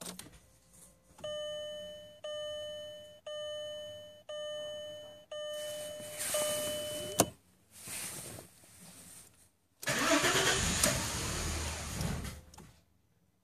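Dashboard warning chime dinging six times about a second apart, then the 2000 VW Passat's V6 being cranked on the starter in a few attempts, the last about three seconds long, without catching: a cold no-start, with the car logging misfires on cylinders 3, 4 and 6.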